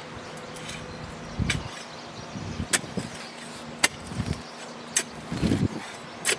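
A digging tool working into soil and tough roots: a few irregular sharp knocks mixed with dull thuds and short scrapes.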